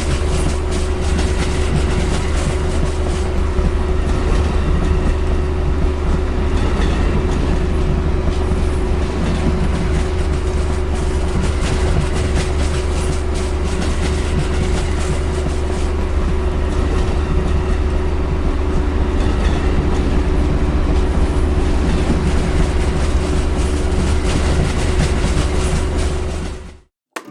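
Train rolling along the track, a steady rumble with wheels clattering over the rail joints. It cuts off suddenly near the end.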